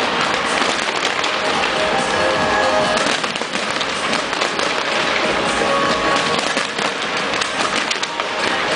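A fireworks display with continuous crackling and popping, many bursts close together, over music.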